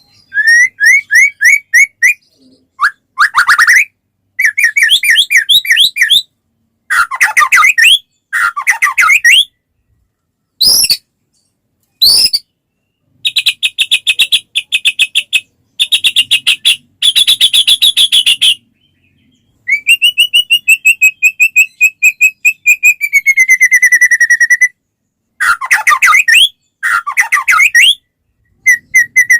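White-rumped shama (murai batu) singing loudly in a string of varied phrases: fast runs of repeated notes and trills, two sharp upward whistles about midway, and a long trill that slides downward near the end, with short pauses between phrases.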